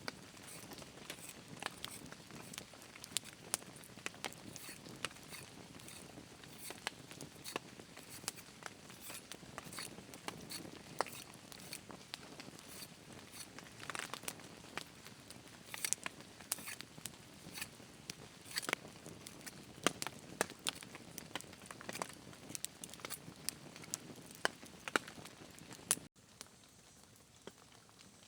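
Many sharp, irregular crackles and ticks over a soft steady hiss, which cut off abruptly near the end, leaving a quieter background.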